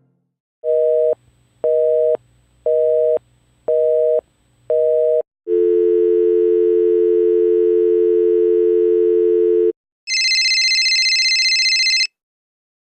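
Telephone line tones. First a busy signal, five short beeps about a second apart. Then a steady dial tone for about four seconds. Near the end comes a brief shrill high tone lasting about two seconds.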